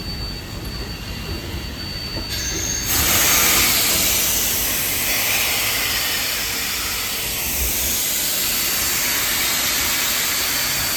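Durango & Silverton steam train: a low rumble with a faint thin high squeal, then about three seconds in a loud, steady hiss of venting steam starts and keeps going.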